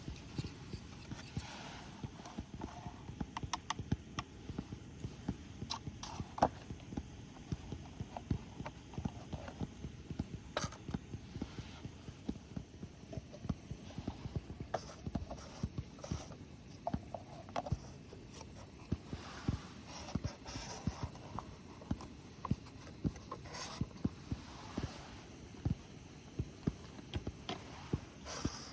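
Irregular popping and crackling from cooking over a wood fire, many small low pops a second with an occasional sharper snap.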